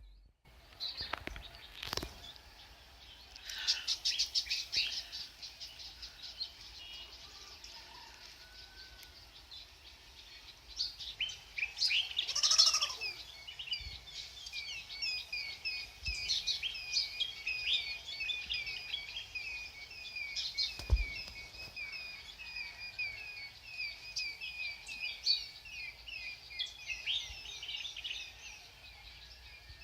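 Birds chirping and trilling, many short calls overlapping, growing busier about a third of the way in. A few faint knocks sound in between.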